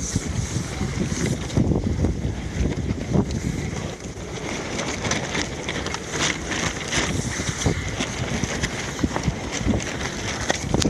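Blizzard wind buffeting the microphone, a steady low rumble with hiss and scattered small clicks and rattles.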